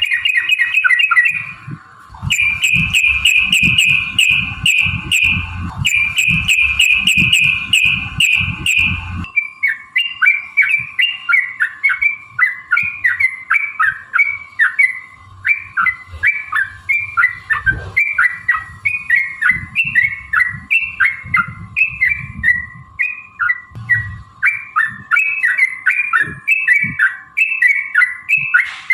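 Yellow-vented bulbul (trucukan) singing loudly. For about the first nine seconds it gives a fast, rattling run of repeated notes, the long 'ropel' trill. It then switches to quick, bubbly chattering phrases repeated two or three times a second.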